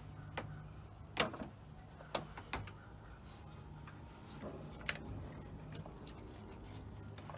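Sharp, scattered clicks and knocks of hand tools and metal parts being worked on the engine's throttle and carburetor linkage, about five in all, the loudest about a second in, over a steady low hum.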